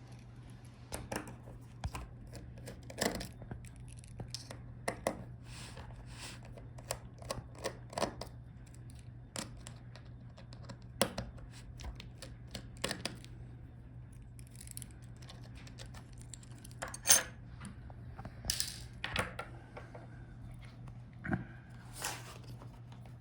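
Irregular clicks, taps and knocks of laptop case parts being handled as the display assembly is worked free of the base, over a steady low hum. The loudest knock comes about two-thirds of the way through.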